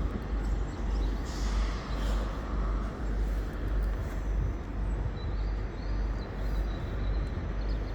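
Busy railway station background: a steady low rumble of trains and platform noise that rises and falls unevenly.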